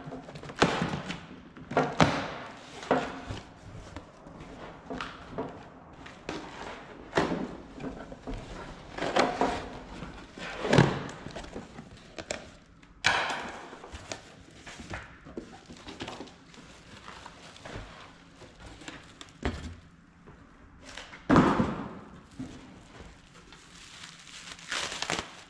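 Scattered, irregular thunks and knocks of tools and metal grill parts being handled and set down on a workbench, the loudest about ten seconds in and again near twenty-one seconds.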